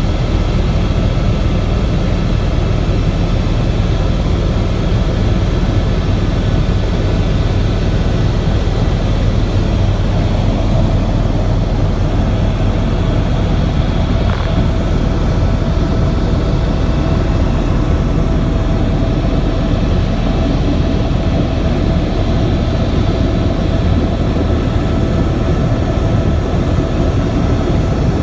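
Helicopter in flight: a loud, steady drone of rotor and engine, with a few faint whining tones held steady above it.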